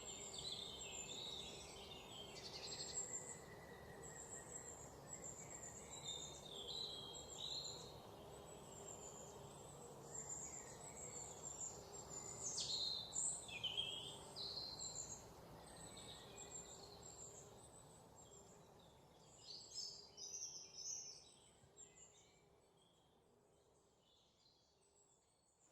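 Several birds singing and calling, a mix of short chirps and quick sliding whistles, over a steady background hiss; the sound fades out near the end.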